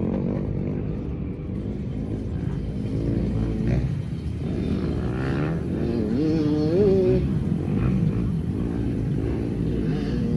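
Motocross dirt bike engines running and revving, their pitch rising and falling, with one clear rising rev about six to seven seconds in.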